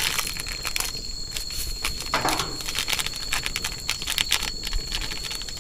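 Seasoning being added from packets: irregular light taps and crinkles of plastic, with a brief rustle about two seconds in, over a steady high-pitched insect drone.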